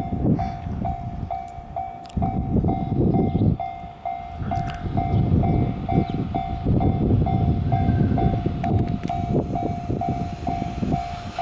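EF210 electric locomotive hauling a container freight train as it approaches, with a heavy, uneven rumble of wheels on rail. Over it an electronic warning bell pulses steadily about twice a second.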